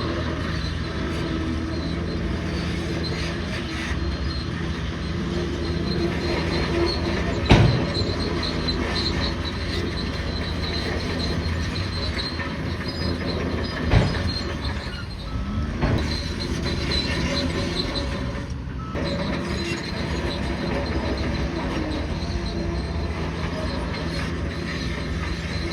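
Bulldozer running steadily under load, its steel crawler tracks squealing and clanking. Two sharp bangs stand out, one about a third of the way in and another a little past halfway.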